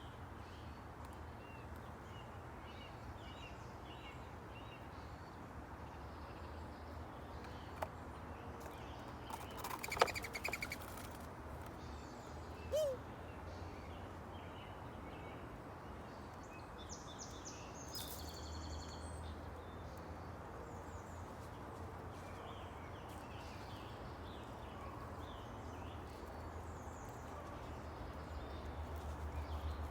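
Small songbirds chirping on and off over a low steady hum. There are a couple of sharp clicks near the middle, and a clearer call of several notes a little past halfway.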